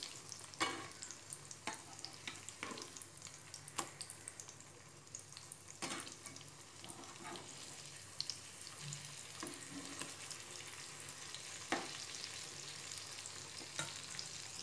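Besan-battered bottle gourd slices sizzling steadily in hot oil in a frying pan. A metal spatula knocks and scrapes against the pan several times as the slices are turned over.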